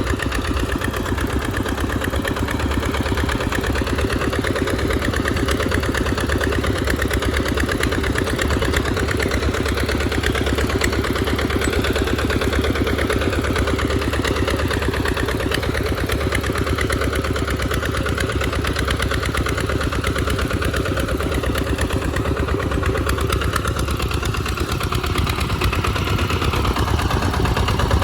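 Tractor engine running steadily with a fast, even firing rhythm while plowing a muddy field.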